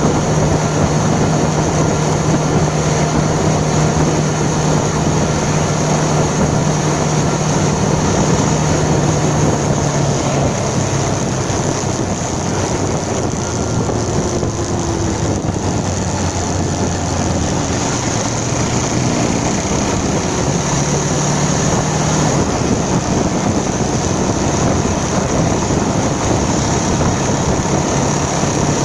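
Motorcycle riding along: the engine runs steadily under a loud rush of wind and road noise. The engine note drops lower for several seconds in the middle and then rises again.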